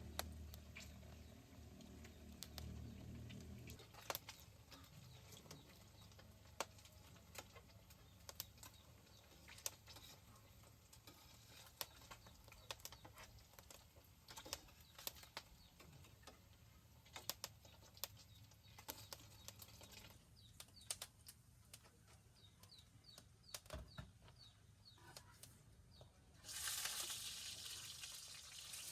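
Mostly quiet, with scattered light clicks and knocks. Near the end, water suddenly starts running and keeps going.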